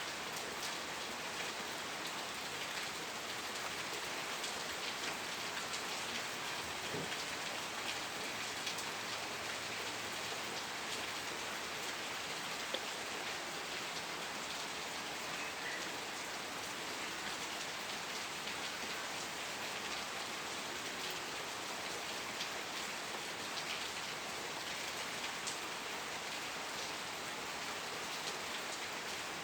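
Steady rain falling, an even hiss of drops on a surface with scattered individual drop ticks.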